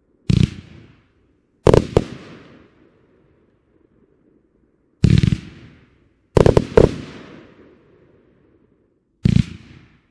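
A 1.2-inch (30 mm) consumer fireworks cake firing its shots: about ten sharp bangs in irregular clusters a second or three apart, each trailing off briefly.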